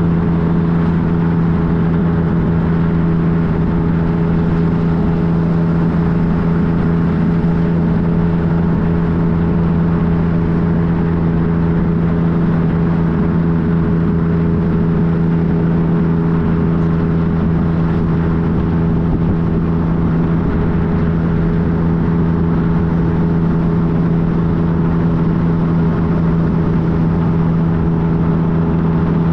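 2015 Yamaha FJ-09's 847 cc inline-three engine running at a steady cruising speed, its note holding constant, under a steady rush of wind noise.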